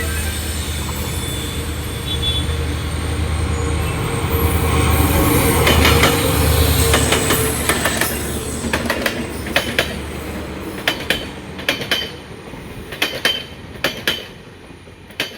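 WDP4-class diesel-electric locomotive hauling a passenger train past, its EMD two-stroke engine giving a steady low drone for the first half. After about eight seconds, the train's coach wheels go clickety-clack over the rail joints, the clicks spreading out and fading as the train moves away.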